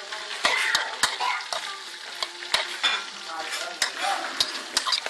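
Bats frying in hot oil in a pan, sizzling steadily while a utensil stirs them, knocking and scraping against the pan in frequent sharp clicks.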